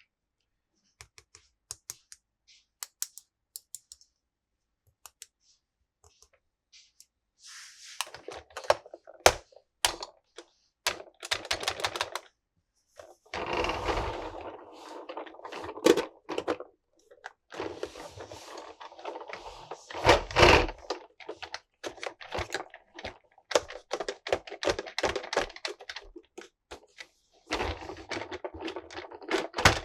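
Hands handling a toy's box and packaging: scattered sharp clicks and taps at first, then, from about seven seconds in, stretches of rustling and crinkling broken by clicks and a few heavier knocks.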